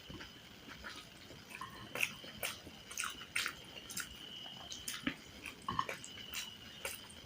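Close-miked chewing and mouth sounds of someone eating a curry meal: irregular wet clicks and smacks, several a second.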